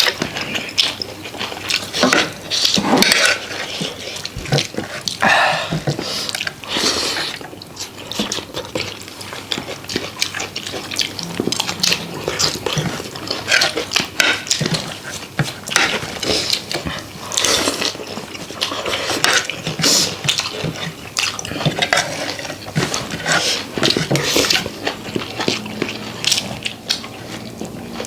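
Close-up eating sounds: utensils clinking on a plate, mixed with wet slurping and chewing of rice with soupy fermented-soybean curry. There are many short, irregular clicks and smacks throughout.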